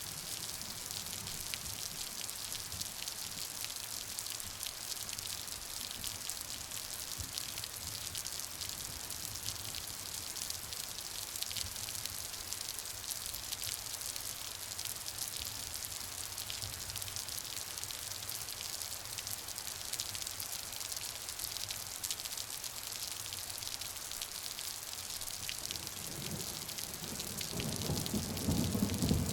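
Steady rain falling, an even hiss with many small drop ticks. A low rumble of thunder builds in the last few seconds.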